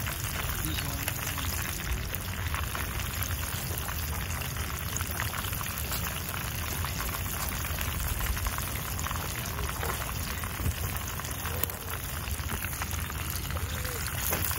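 Fish pieces frying in hot oil in a nonstick pan: a steady sizzle full of dense, fine crackling pops.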